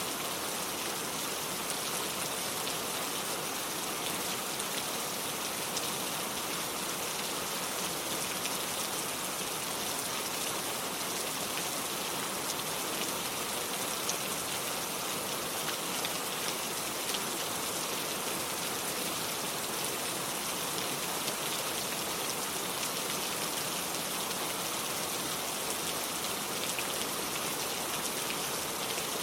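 Steady rain, with many small drops pattering on surfaces and water.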